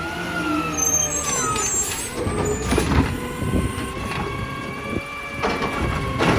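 Heil Durapack Rapid Rail side-loading garbage truck working. A whining drone of engine and machinery dips in pitch and rises back near the start, with a brief high whistle. Several sharp clunks follow toward the end.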